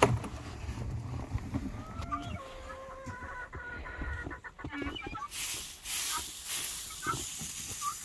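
Chickens calling and clucking, with a few drawn-out, level hen calls in the middle. A loud rustling noise comes in for the last few seconds.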